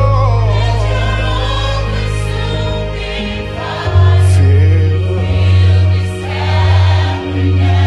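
Christian worship song: a choir singing with a band and a heavy sustained bass line; the bass drops out for about a second partway through and then comes back.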